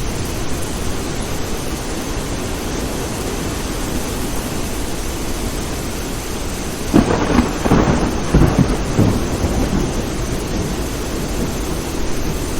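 Steady rain with a thunderclap about seven seconds in: a few sharp cracks that rumble on for a couple of seconds before the rain alone carries on.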